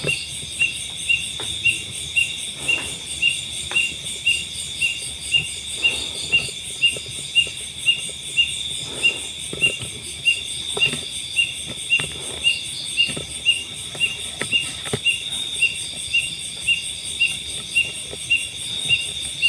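Night insect chorus: a steady high-pitched shrill trill with a cricket chirping evenly about two to three times a second, plus faint scattered rustles and knocks.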